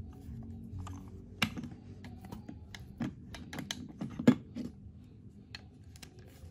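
Irregular light clicks and knocks of a plastic toy train engine being handled, set down on a wooden tabletop and turned over, with a few sharper knocks among them.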